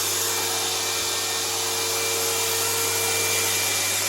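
DeWalt FlexVolt 60-volt 8¼-inch cordless direct-drive table saw running at full speed with no load: a steady motor whine and blade whir.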